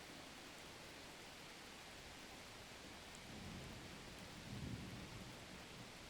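Faint, steady rain hiss. In the second half, a low rumble swells up twice and fades.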